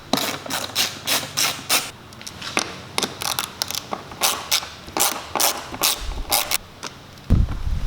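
Hand tools and plastic bodywork being worked on a dirt bike: a run of irregular short clicks and scrapes, two or three a second, with a louder, deeper handling sound starting near the end.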